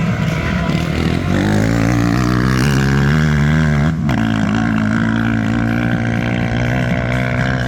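Motocross bike engines running hard, their pitch wavering up and down with the throttle, with a sharp break about four seconds in.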